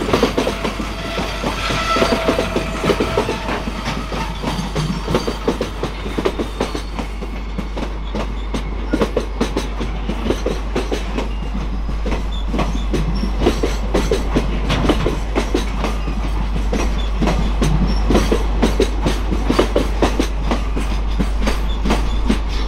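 Long container freight train of flat wagons rolling past, its wheels clicking over the rail joints in a steady run of rhythmic clacks over a continuous rumble.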